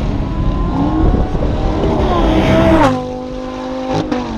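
Race car engine at full throttle, its revs climbing, then dropping sharply in pitch and level about three seconds in, with a couple of sharp cracks near the end.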